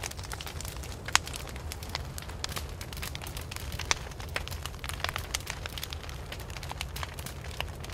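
Wood fire crackling: irregular sharp snaps and pops of burning wood over a low steady rumble. Two pops stand out as louder, about a second in and near four seconds.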